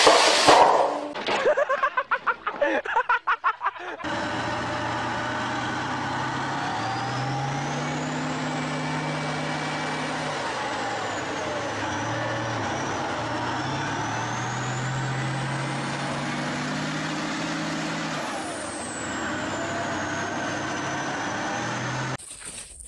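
Main battle tank's engine running hard, its pitch rising and falling in long sweeps as the tank labours in mud, with a high whine gliding up and down along with it. It cuts off suddenly near the end.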